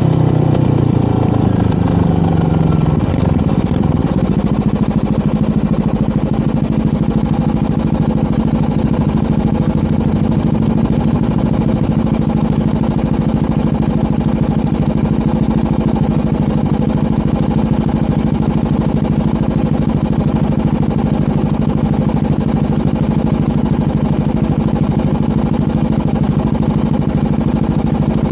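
Motorcycle engine and aftermarket exhaust, most likely the 2011 Yamaha WR250R's single-cylinder with an FMF Powercore 4 muffler. Its pitch falls as the engine slows over the first few seconds, then it runs at a steady speed for the rest of the time.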